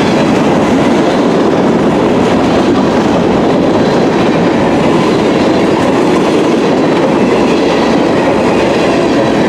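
Freight cars of a slow-moving Canadian National mixed freight train rolling past, a steady loud rumble with wheels clattering over the rail.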